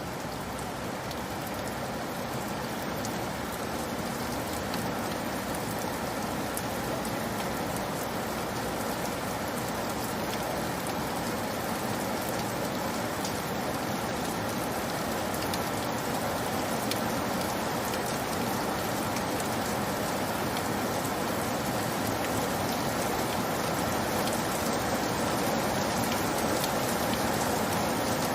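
Steady rainfall, a dense even hiss with scattered sharper drop impacts, slowly growing a little louder.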